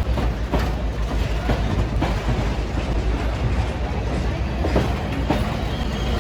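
Passenger train rolling on the track: a steady low rumble with irregular clicks of wheels over rail joints.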